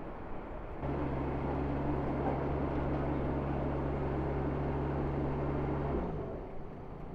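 A vehicle engine hum that comes in suddenly and holds one steady pitch for about five seconds, then falls in pitch and dies away, over street noise.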